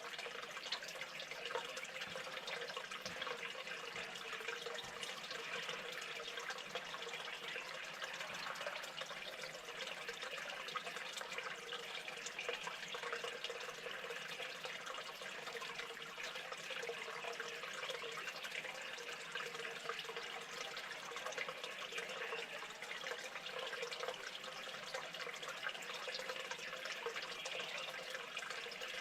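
Steady running water, an even trickling rush.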